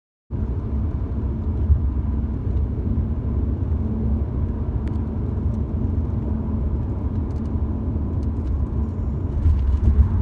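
Steady low rumble of a car driving, heard from inside the cabin: road and engine noise that cuts in abruptly, with a single light click a couple of seconds in.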